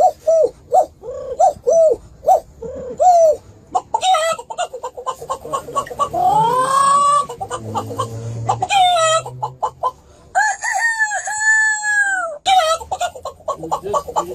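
A bird calling loudly, rooster-like. It gives a run of short clucking notes for the first few seconds, then a fast rattle, then several long crows, the last in three parts near the end.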